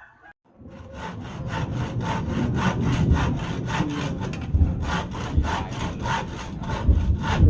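Hand saw cutting through wood in quick, even back-and-forth strokes, about four a second, starting about half a second in.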